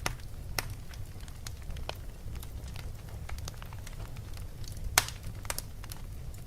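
Fireplace crackling: irregular sharp pops and snaps over a steady low rumble, with the loudest pop about five seconds in.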